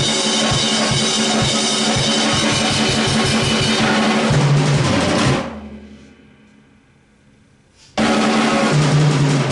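Acoustic drum kit played in a fast, dense pattern of rapid strokes, closing with low tom hits a little past four seconds in that ring and die away over the next few seconds. About eight seconds in, the kit comes back in suddenly and loudly with the same fast playing and more tom hits.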